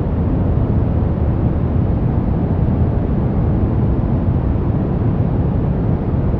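Brown noise: a steady, deep hiss with most of its weight in the low range and little in the highs, unchanging in level.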